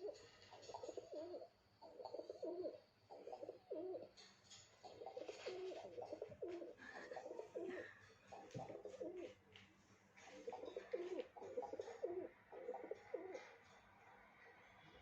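Pigeon cooing: a run of low, rolling coos repeated in several bouts with short pauses between, fading out near the end.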